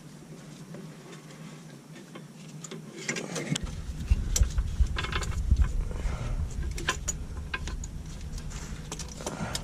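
Irregular metallic clicks, ticks and knocks of tools and parts being handled, getting busier about a third of the way in, when a low rumble also starts.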